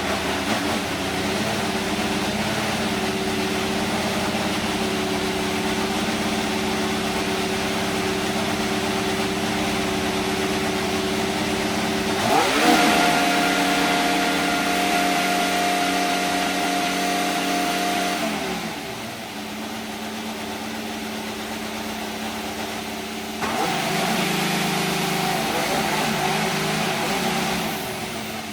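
Haas VF-24 Formula 1 car's Ferrari 1.6-litre turbocharged V6 engine idling steadily, then revved up quickly about twelve seconds in and held at a steady higher pitch for about six seconds before dropping back to idle. Near the end it picks up louder again for a few seconds.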